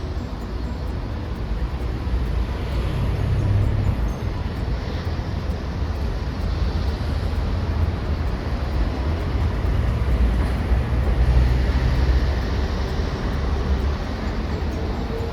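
City street traffic: a steady low rumble of passing vehicles that swells twice and eases again.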